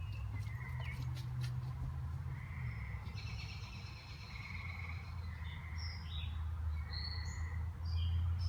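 Birds chirping with short, repeated whistled notes, over a steady low rumble.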